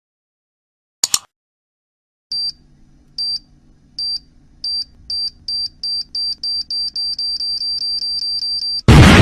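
Bomb-timer sound effect: a short double click about a second in, then high electronic beeps that speed up from about one a second to several a second, cut off by a loud explosion just before the end.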